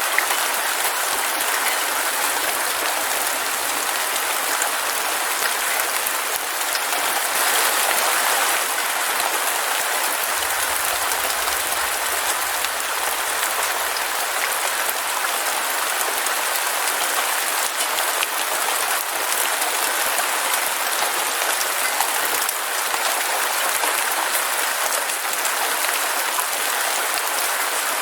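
Heavy rain falling steadily, a dense, even patter without let-up.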